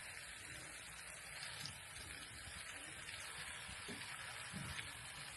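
Faint, steady sizzling of chicken legs frying in oil.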